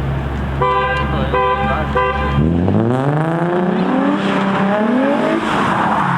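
A car horn honks three times in quick succession over an idling sports-car engine. The engine then revs up hard, its pitch rising again and again as it accelerates.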